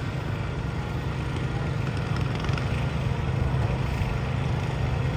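Small garden pulling tractor engine running steadily at an even pitch.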